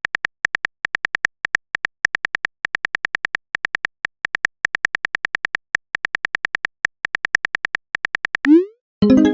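Phone-keyboard typing sound effect: a rapid run of short, identical high-pitched ticks, several a second with a few brief pauses. Near the end a quick rising 'boop' plays, the sound of a message being sent.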